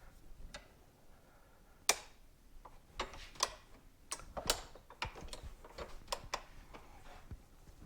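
Irregular clicks and taps of metal hand tools on a motorcycle fork leg while a fork seal is being worked out, a few sharper knocks among them.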